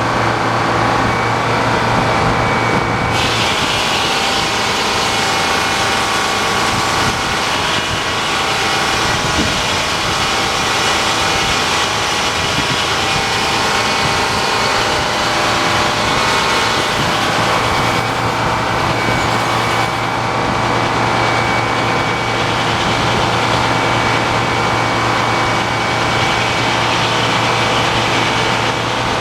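Sawmill running and sawing through a big log: a steady loud mechanical drone with several held tones, and a brighter cutting hiss that comes in about three seconds in.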